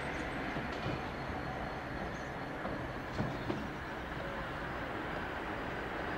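Freight train of loaded open ballast box wagons rolling slowly over the rails, a steady rumble of wheels, with two sharp wheel clicks about three seconds in.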